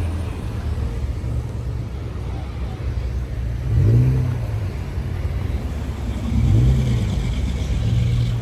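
Car engine running low and steady, revved twice: the pitch swings up and back down about four seconds in and again near seven seconds.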